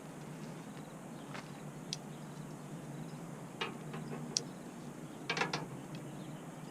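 Scattered sharp clicks and clacks of heavy fiberglass tent pole sections knocking together as they are handled and sorted, with a quick run of clicks about five seconds in.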